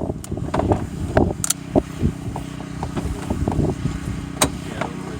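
Wind buffeting the microphone in gusts, over a faint steady engine hum, with scattered light knocks and clicks; one sharper click comes about four seconds in.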